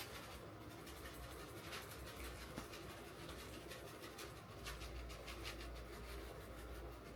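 Faint rubbing and scratching sounds with scattered light clicks over a low rumble that grows stronger about halfway through.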